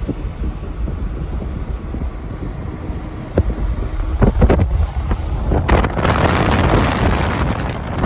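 Vehicle driving in a blizzard, heard from inside: a steady low road rumble with a few knocks, then a louder rushing hiss from about six seconds in.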